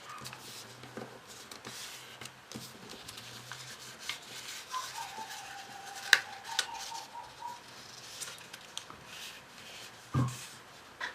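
Paper being handled and folded by hand, with light rustles and small clicks; one sharp click about six seconds in. A short wavering whine runs through the middle, and a low thump comes near the end.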